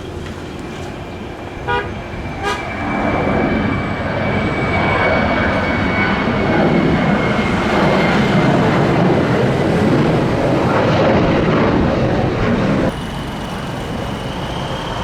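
Jet airliner engines at takeoff: a broad roar with a steady whine on top, building over a few seconds and staying loud, then cutting off suddenly near the end.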